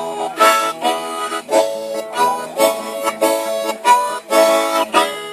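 Harmonica playing a rhythmic run of chords in short, repeated blasts, as part of a live campfire song.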